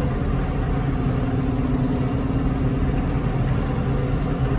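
Tractor engine running at a steady speed while driving along the road.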